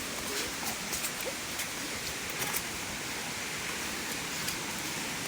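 Steady hiss of rushing water, with a few faint ticks scattered through it.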